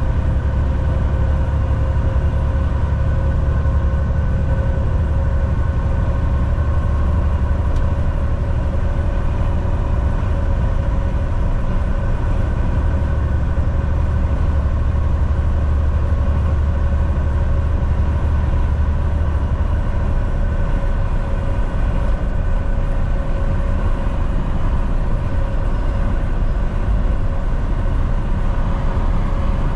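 Volvo VNL 760 semi truck cruising on the highway: a steady engine drone with tyre and road noise, and a few steady whining tones above the low hum. The deep hum eases a little about twenty seconds in.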